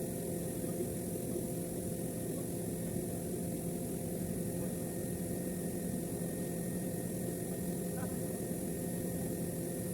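Steady machine hum with several constant tones and a high hiss, unchanging throughout.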